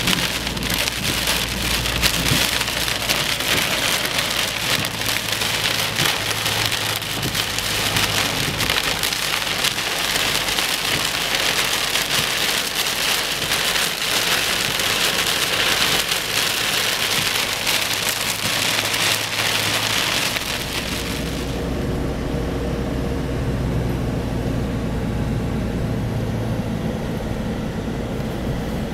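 Heavy rain pouring down, a dense hiss full of drop impacts. About two-thirds of the way through the rain noise drops off sharply, leaving a steady low vehicle engine hum.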